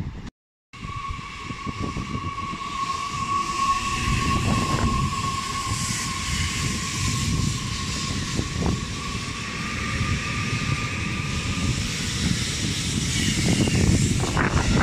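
Electric passenger train running through the station: steady rail and wheel rumble, with a steady high ringing tone held for about eleven seconds and a few sharp clicks near the end. The sound cuts out completely for a moment just after the start.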